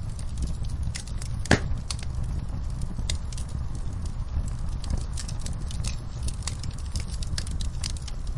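Wood fire crackling, with irregular snaps and one loud pop about a second and a half in, over a steady low rumble.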